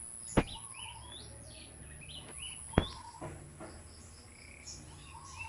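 Birds chirping and calling in short, quick high notes. Two sharp clicks stand out, one about half a second in and another near three seconds, and a thin steady high tone runs through the first half.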